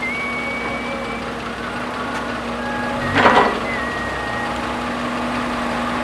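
Heavy diesel earth-moving machinery running steadily, with thin high whining tones coming and going. A short, louder hissing burst comes a little over three seconds in.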